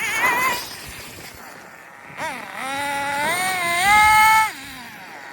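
Nitro RC drag car's RB sealed-backplate CE glow engine, run through a 1/10-scale muffler, revving in a high whine. It eases off about half a second in, climbs again from about two seconds in to its loudest, then cuts back sharply near the end.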